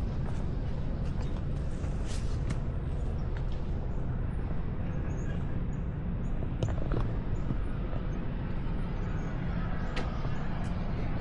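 Steady low rumble of outdoor background noise, with a few faint clicks and short faint high chirps scattered through it.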